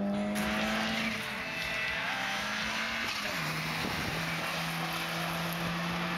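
A competing car's engine running at steady revs under a steady hiss. Its pitch drops a step about three and a half seconds in.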